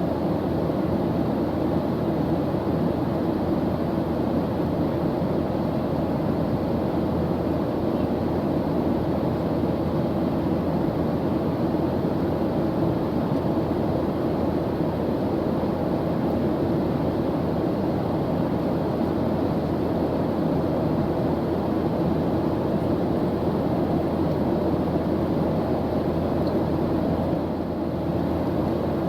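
Airliner engine noise, a steady low drone and rush with no change in level.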